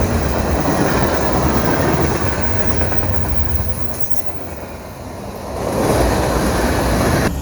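Train passing close by at speed: a loud, continuous rumble of wheels on the rails with some clickety-clack. The rumble eases off about two-thirds of the way through, swells again, then cuts off abruptly near the end.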